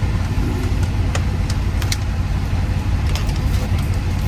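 Steady low rumble of a semi-truck's engine and road noise heard inside the cab, with a few light clicks or rattles.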